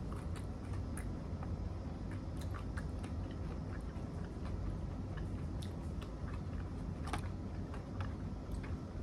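Close-up chewing and biting of food, with scattered small crunchy clicks, the strongest about seven seconds in, over a steady low hum.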